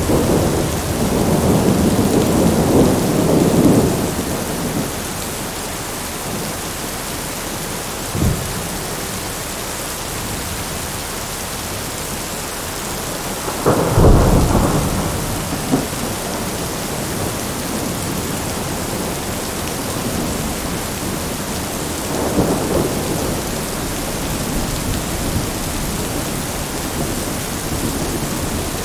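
Steady rain with thunder. A rumble rolls through the first few seconds, then comes a short sharp crack. About halfway through, a loud clap rolls on for a couple of seconds, and a softer rumble follows later.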